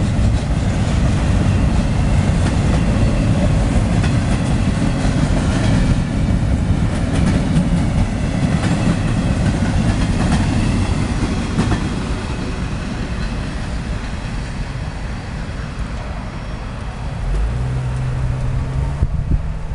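A long CSX intermodal freight train passes, its empty flatcars rolling by in a steady rumble and rattle of steel wheels on the rails. The noise eases off after about twelve seconds as the last cars go by, and a low steady hum comes in near the end.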